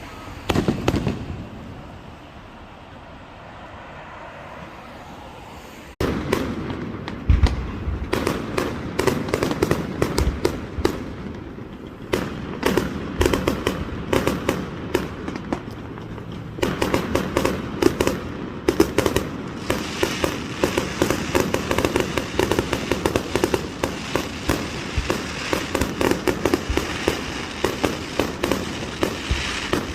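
Aerial fireworks going off: a burst about a second in, a quieter spell, then from about six seconds a dense crackling barrage of many rapid pops with a few deeper booms mixed in.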